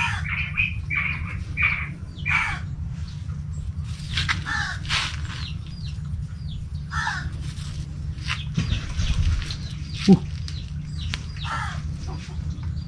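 Birds calling over and over in short, repeated calls, with a steady low hum underneath and a single sharp tap about ten seconds in.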